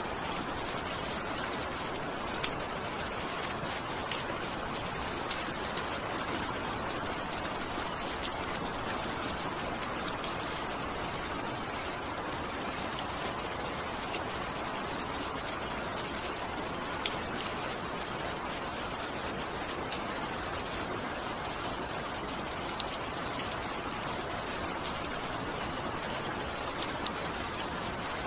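Steady rainfall: an even hiss with many separate drops ticking sharply on a surface close by.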